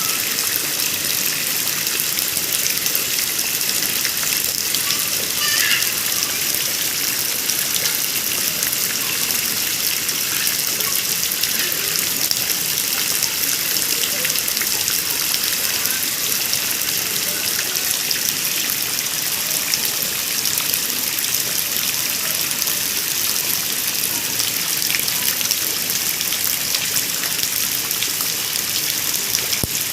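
Heavy rain falling steadily, a constant dense hiss of drops with no let-up. A faint brief high call rises out of it about five seconds in.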